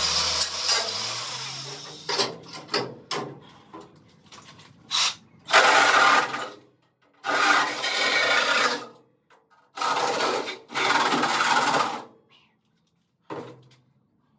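Power tool cutting through the Moke's rusty steel floor panels in bursts of a second or so, with short pauses between.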